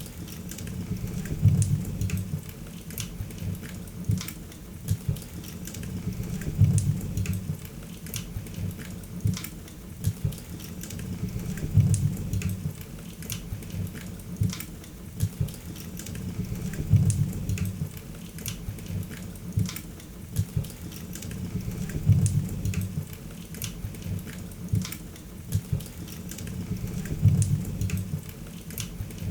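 Wood fire in a fireplace crackling, with frequent sharp pops and snaps over a faint hiss. A low rumble swells and fades about every five seconds in a regular, repeating pattern.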